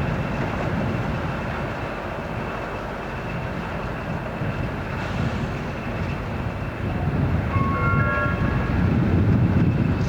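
Train running, with a steady rumble that grows louder about seven seconds in. A few short high tones sound near the end.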